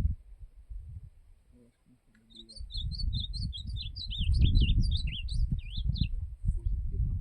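Ultramarine grosbeak (azulão) singing one quick, warbling song phrase of about four seconds, starting about two seconds in, over a loud low rumble.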